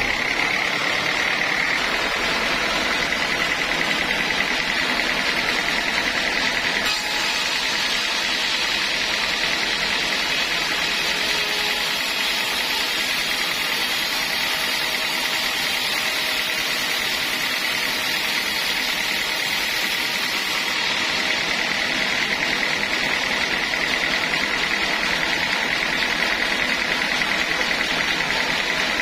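Sawmill machinery running steadily, a continuous mechanical noise with a steady high-pitched whine.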